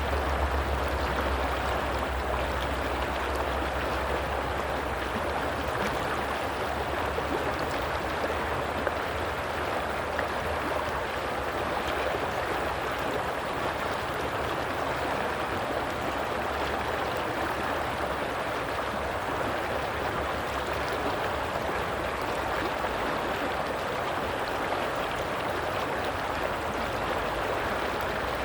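Flowing water of a stream rushing and gurgling steadily, with a low rumble underneath that fades out over the first few seconds.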